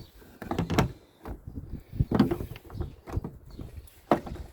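Irregular clicks, knocks and scrapes of a car's plastic rear light parts being handled and fitted by hand, with a sharper knock about four seconds in.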